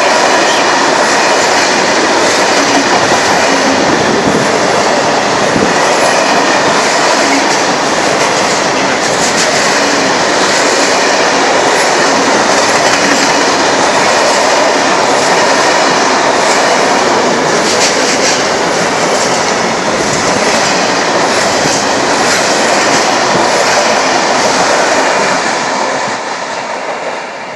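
Freight train of tank-container wagons passing close at speed: a loud steady rumble with the clatter of wheels over the rail joints. The noise falls away near the end as the last wagon goes by and the train draws off.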